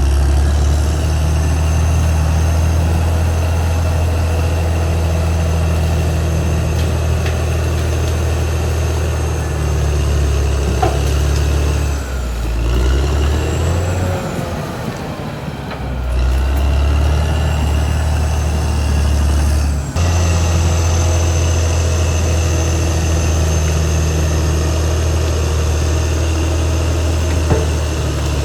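Caterpillar D6R XL bulldozer's diesel engine running steadily, with a thin high whine over it. About halfway through the engine sound dips and shifts in pitch for a few seconds, then comes back up.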